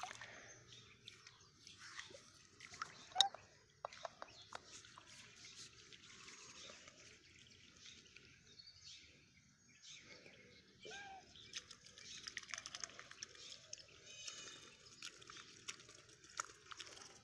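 Quiet scene of faint water sounds, small drips and splashes, with scattered clicks and a few soft bird chirps; one short rising call about eleven seconds in.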